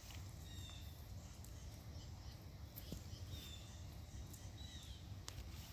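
Faint birds chirping, several short high calls scattered through, over a low steady rumble.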